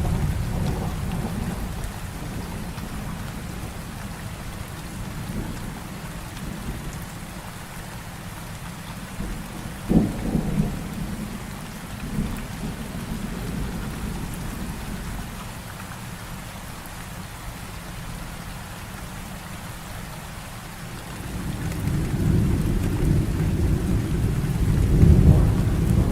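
Heavy rain hissing steadily, with thunder over it. A low rumble dies away in the first couple of seconds, a sharp thunderclap comes about ten seconds in, and another deep rumble swells up near the end.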